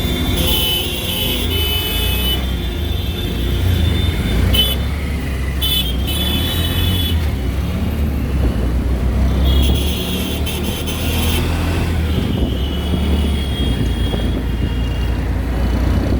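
Busy road traffic heard from a moving auto-rickshaw: a steady low rumble of engine and road, with several vehicle horns honking in short blasts over the first eleven seconds or so.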